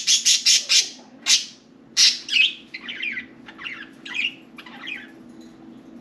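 Budgerigars calling: a rapid run of sharp, repeated calls at about five a second, then warbling chatter that dies away about five seconds in.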